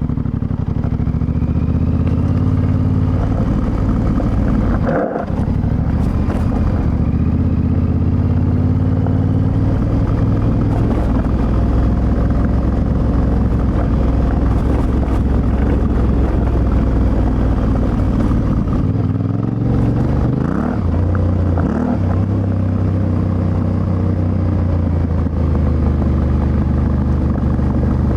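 Yamaha Ténéré 700's CP2 parallel-twin engine pulling under way through an Akrapovic exhaust, its note rising and falling with the throttle. The note breaks off briefly about five seconds in, like a gear change, and dips and climbs again later on.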